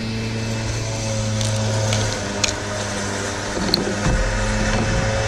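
A steady mechanical hum from a running motor, with a few light clicks and knocks of handling. A low rumble joins about four seconds in.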